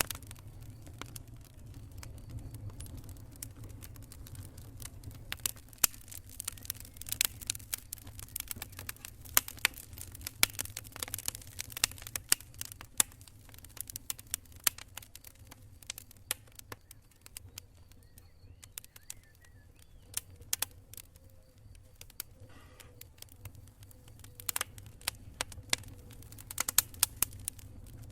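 Wood campfire crackling, with irregular sharp pops and snaps, thickest in the first half and again near the end, over a steady low rumble.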